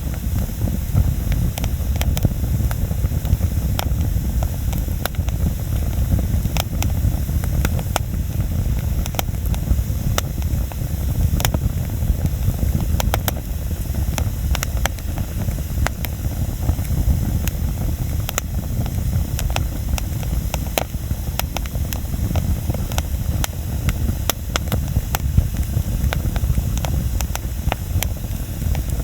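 Wood campfire burning: frequent irregular crackles and sharp pops over a low, steady rumble.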